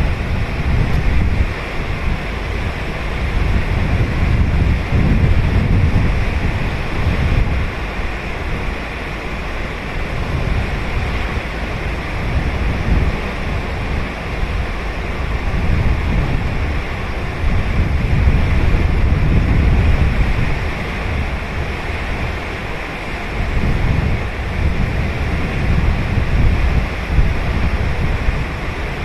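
Ocean waves breaking and washing on a sandy beach, a steady surf that swells and eases every few seconds, with wind buffeting the microphone.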